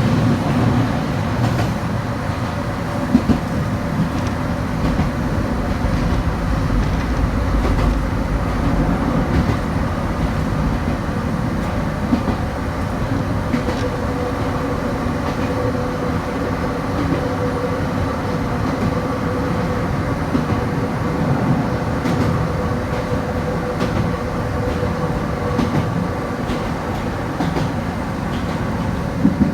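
Kobe Electric Railway electric train running along the line: a steady rumble of wheels on rails under a humming motor tone. A few sharp clicks come through as it passes over rail joints.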